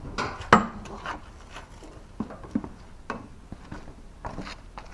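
A series of scattered clicks and knocks from tools and parts being handled while working on a lawnmower tire, the loudest about half a second in.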